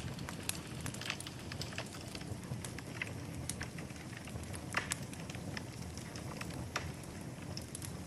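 Wood fire crackling in a fireplace: a steady low rumble of flame with irregular sharp pops and snaps, the loudest about five seconds in.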